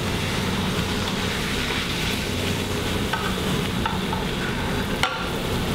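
Cod fillet sizzling steadily in hot oil in a sauté pan while a spatula scrapes and taps the pan to slide it out, with a sharp click about five seconds in.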